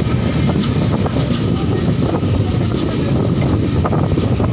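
Indian Railways passenger train running at speed, heard from beside the moving coach: a steady rumble of wheels on the track with a few faint clicks.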